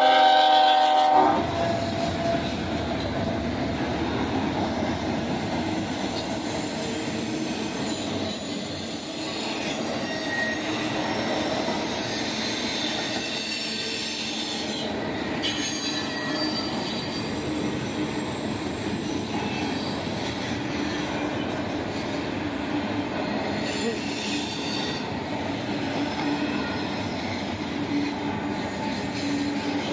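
Train horn sounding a chord that cuts off about a second in, then a train rolling past steadily: wheels on rail with a steady rumble, some clickety-clack and faint, thin wheel squeal.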